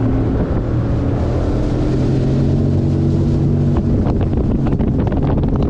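Bass boat's outboard motor running steadily under way after throttling up, with wind buffeting the microphone from about four seconds in.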